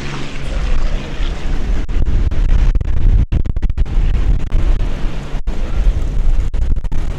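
A Lockheed P-38L Lightning's twin Allison V-12 engines passing in a display flight: a heavy, loud rumble, with the recording breaking up in several brief dropouts.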